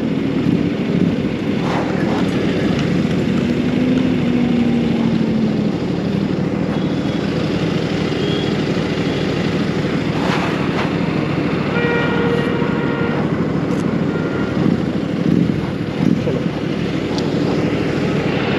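Royal Enfield Continental GT 650's parallel-twin engine running steadily at road speed, heard from the rider's on-bike camera under dense wind rush. A short horn-like note sounds about twelve seconds in.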